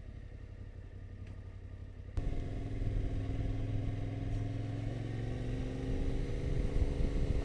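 Yamaha Ténéré 700's parallel-twin engine running, quiet for about two seconds, then suddenly louder as it pulls on along the lane.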